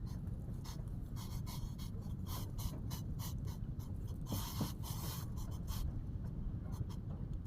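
Strong wind on the microphone, a steady low rumble, with many short scratchy rustles over it, thickest about four to five seconds in.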